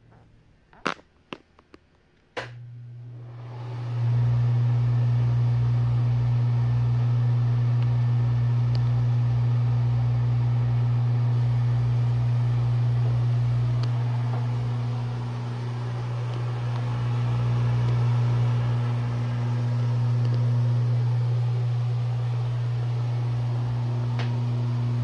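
A few sharp clicks, then a laundry room exhaust fan starts about two seconds in, builds up over a second or two and runs with a steady low hum and a rattle, a rattling that is getting worse.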